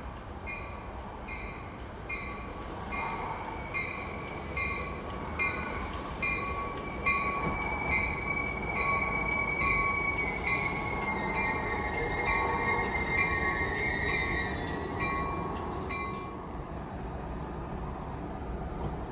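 NJ Transit train pulling into the station with a bell dinging evenly, about two to three times a second, over the rumble of the train. From about a third of the way in, wheels and brakes squeal with a wavering, slowly falling pitch, and the dinging and squeal stop together, as the train comes to a halt.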